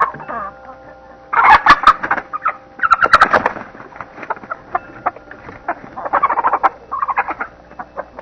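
Chickens squawking and clucking in loud, harsh bursts, the loudest about a second and a half in and around three seconds, with more near six and seven seconds.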